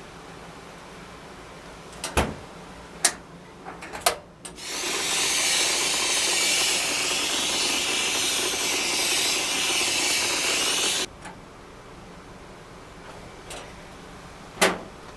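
A few sharp clicks and knocks, then a steady hiss of spraying air for about six seconds that cuts off abruptly, then one more knock near the end.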